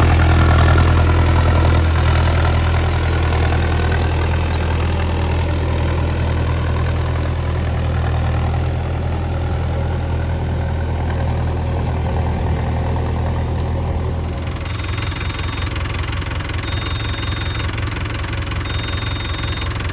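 Mahindra Arjun Novo 605 DI tractor's four-cylinder diesel engine running steadily. About two-thirds of the way through, the engine note drops to a rougher, pulsing idle, and a short high beep starts repeating about every two seconds.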